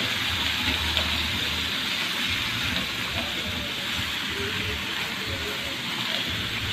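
Marinated pigeon pieces sizzling in a frying pan as they are stirred and seared, a steady hiss.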